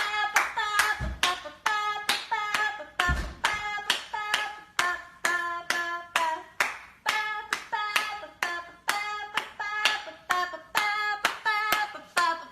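A steady rhythmic beat of sharp clicks, about three a second, each with a short pitched tone.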